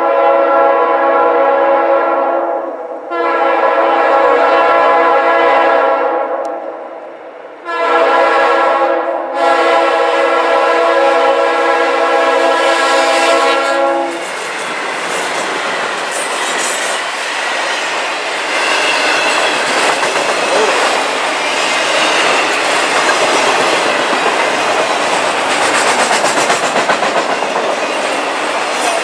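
Norfolk Southern locomotive air horn sounding three blasts, the last held about six seconds. After about fourteen seconds the horn stops and the train rolls past at speed, its wheels clattering steadily on the rails.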